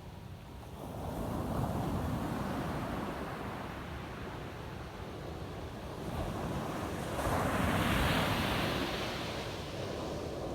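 Ocean surf breaking on a sandy beach: a wave swells in about a second in and washes out, then a louder wave breaks around seven seconds in and eases off.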